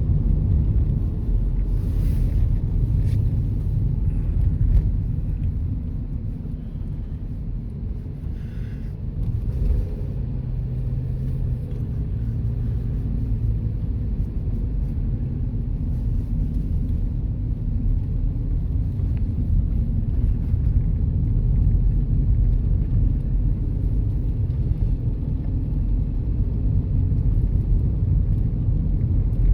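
Car driving at steady speed, heard from inside the cabin: a constant low rumble of road and engine noise, easing slightly for a few seconds before building again.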